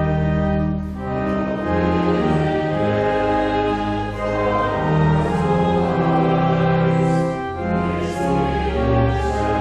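A hymn sung by a congregation with organ accompaniment: slow, held chords with the bass note changing every second or so.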